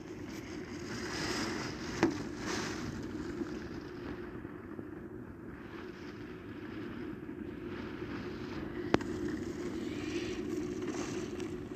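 Storm wind and rain heard through a closed window, gusting up and easing off, over a steady low rumble. Two sharp clicks come about two seconds and nine seconds in.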